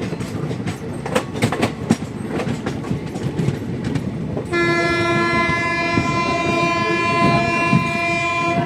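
A passenger train running, its wheels clicking over the rail joints beneath a steady rumble. About halfway through, a train horn sounds one long, steady blast of about four seconds, which stops just before the end.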